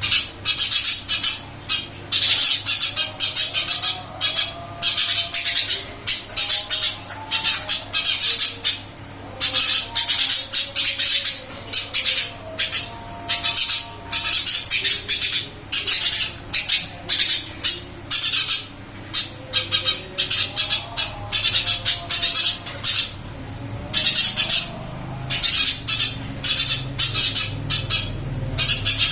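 Caged Eurasian tree sparrow chirping busily, quick runs of short, sharp chirps with brief pauses between them.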